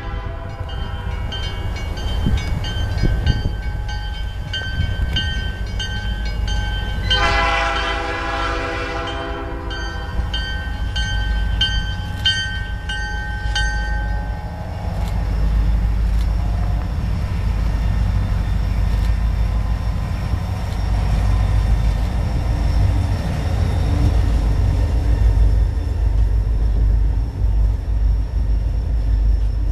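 Diesel freight train approaching and passing: one long blast on the locomotive air horn about seven seconds in, a crossing bell ringing about one and a half times a second until about halfway, then the diesel engines rumbling louder as the locomotives go by.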